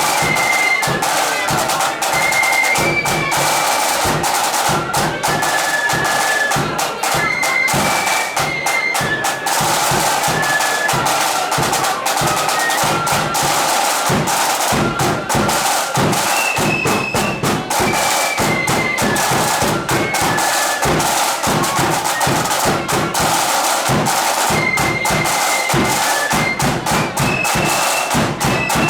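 Marching flute band playing a tune, massed flutes carrying a high melody over steady snare and bass drumming.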